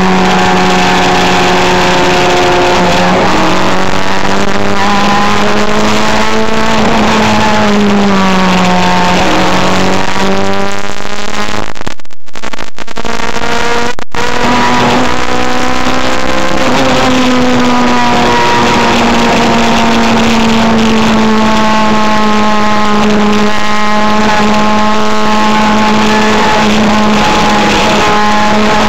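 Four-cylinder car engine running hard at high revs. Its pitch climbs and drops with gear changes about 3 and 8 seconds in, then holds high and nearly steady through the second half. The sound cuts out briefly twice around the middle.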